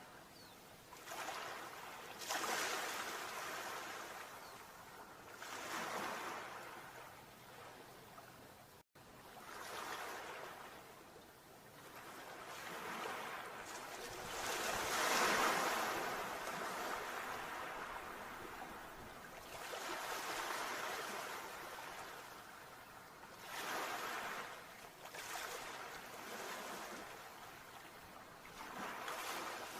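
Sea waves breaking and washing in, swelling and fading every few seconds, the loudest surge about halfway through. A very short dropout about a third of the way in.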